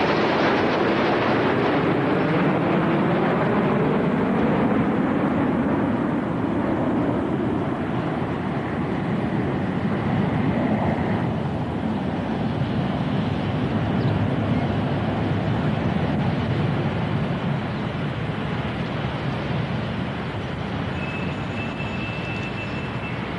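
A Concorde formation of jet aircraft flying past overhead: steady jet engine noise whose pitch sweeps downward as the aircraft go by, easing off slightly near the end.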